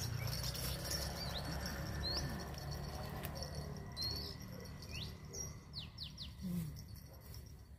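Small birds chirping: short, quick sweeping calls at irregular intervals, over a low rumble that fades after the first few seconds.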